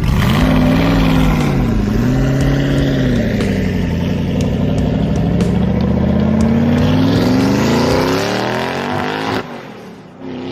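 Small pickup truck's engine revving hard under load as it fights to climb through deep mud. The pitch dips twice, then rises steadily for several seconds and falls away sharply about nine seconds in.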